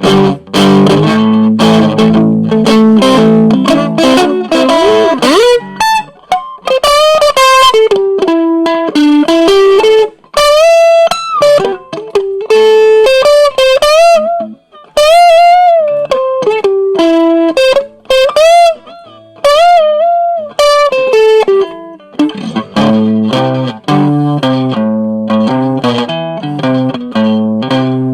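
Cheap Strat-style electric guitar played through a small no-name amplifier. It opens with low chugging riffs, then plays a single-note lead melody with string bends and vibrato for most of the stretch, and returns to the low riff near the end.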